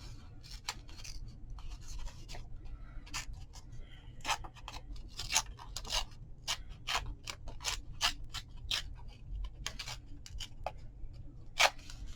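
Paper being handled and snipped with scissors: a run of short, crisp, irregular snips and rustles.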